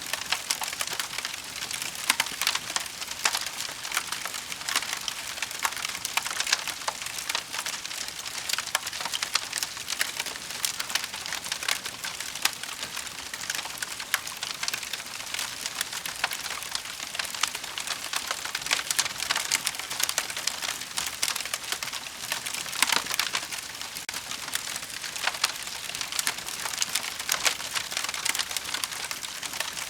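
Wood fire burning in a fireplace, a steady dense crackle with frequent sharp pops and snaps.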